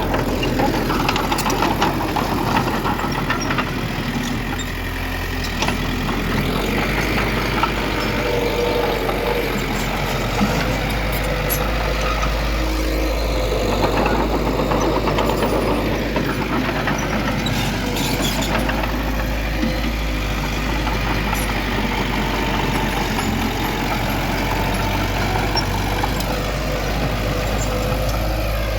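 Heavy diesel engine of earthmoving machinery running steadily under load, with scattered metallic clanks and knocks.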